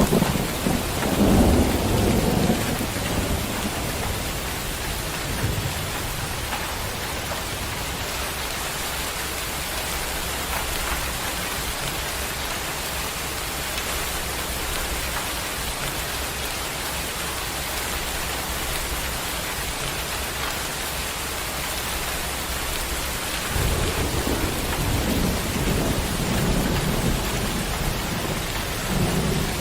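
Steady rain with thunder: a low rumble of thunder rolls through the first few seconds, then fades to rain alone, and another roll of thunder builds in about three-quarters of the way through.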